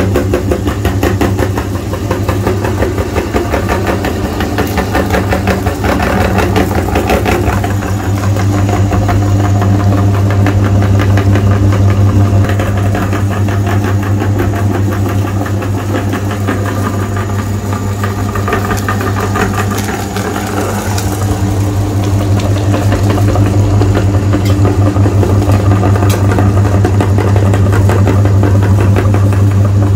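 Meat grinder motor running steadily with a strong hum and a rapid rattle as it grinds.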